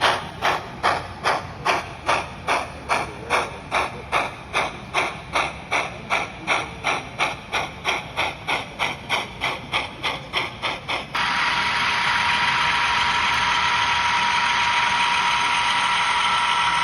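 Model steam locomotive sound unit chuffing steadily, about two to three chuffs a second and gradually quickening. About eleven seconds in the chuffing cuts off and a loud steady hiss with a held tone takes over.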